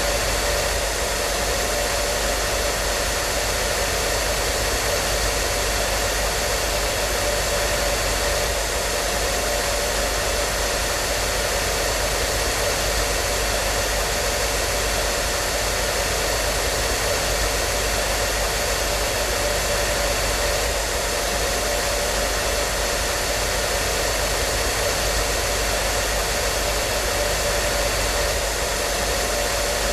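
Hair dryer running steadily: an even rushing hiss of fan and airflow with a faint steady motor whine, unchanging throughout.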